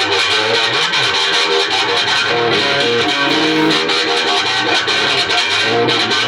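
Electric guitar playing loud, continuous rock-blues music.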